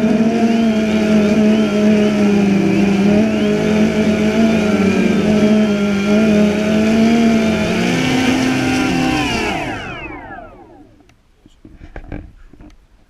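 DJI Phantom 2 quadcopter's motors and propellers whining steadily with a slightly wavering pitch, then spinning down with a falling whine and stopping about nine to ten seconds in; a few faint knocks follow.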